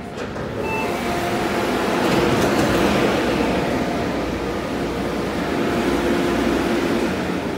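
Adtranz-CAF electric multiple unit train pulling away from the platform, heard from inside the car: running and wheel noise builds over the first few seconds, with a steady hum from the traction motors underneath.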